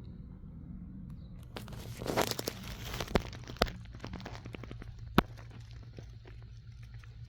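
Crinkling and crunching handling noise for a second or two, then several sharp clicks, the loudest about five seconds in, and scattered light ticks over a steady low hum.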